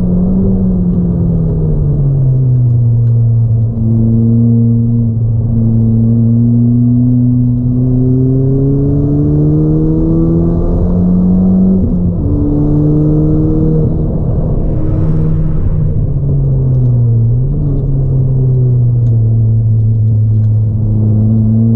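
Ford Fiesta ST180's turbocharged 1.6-litre four-cylinder with a 3-inch aftermarket exhaust, heard from inside the cabin while driven on track. The revs fall at the start, then climb slowly, drop sharply at a gear change about twelve seconds in, dip and rise again. A brief hiss comes about fifteen seconds in.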